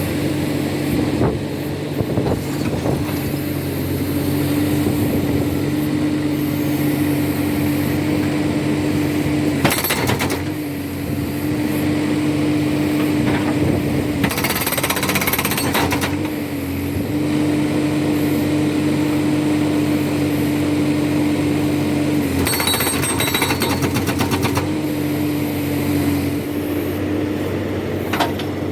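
Backhoe-mounted hydraulic rock breaker hammering in rapid blows over the backhoe's engine running steadily under load, with short breaks a few times.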